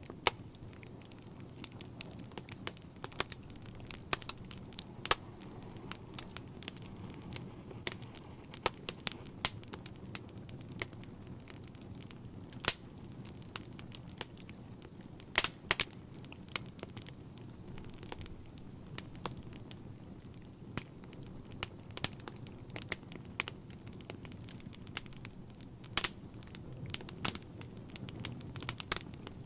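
Wood fire burning in a fireplace: a steady low rumble of flames with irregular crackles and sharp pops of burning logs, a few louder pops scattered through.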